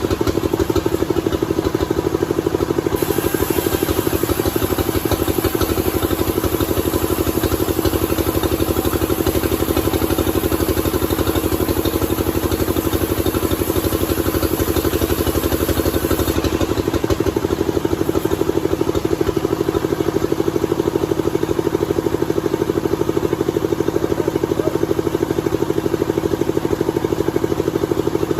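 Sawmill engine running steadily, with a rapid, even firing pulse under a steady hum. A higher hiss joins about three seconds in and drops away just past halfway.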